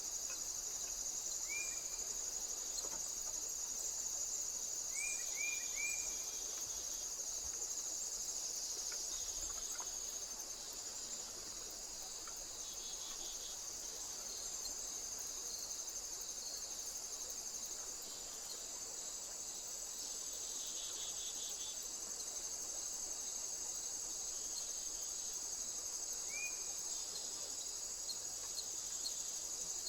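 A steady, high-pitched trilling chorus of insects such as crickets, with a few short rising bird chirps: one about a second and a half in, three quick ones around five seconds, and one near the end.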